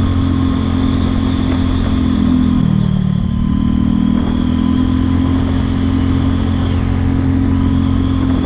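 Kymco People 250 scooter's single-cylinder four-stroke engine running on a ride, its exhaust leaks sealed with high-heat JB Weld epoxy. The engine note drops and then rises again about three seconds in.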